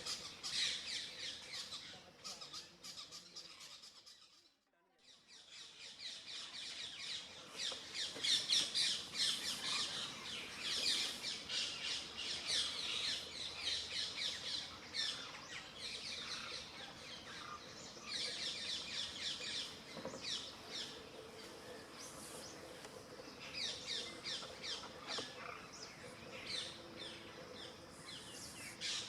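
A busy chorus of birds chirping and squawking, many rapid calls overlapping. It drops away almost to nothing about four to five seconds in, then comes back.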